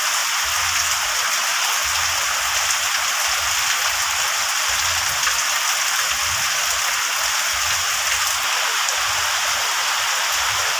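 Heavy rain pouring steadily on garden plants and a yard, a dense, even hiss.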